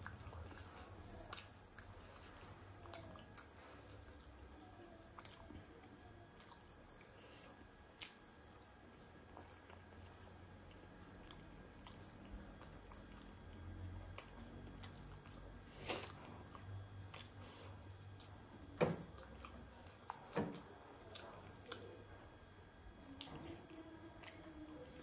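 Close-up eating sounds: soft, wet chewing and biting of syabale (fried meat-filled bread) dipped in achar. A few sharp clicks are scattered through, the loudest past the middle.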